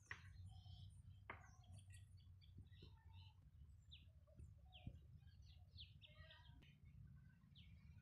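Near silence: faint scattered bird chirps, short and high, some falling in pitch, over a low steady rumble, with a few faint clicks.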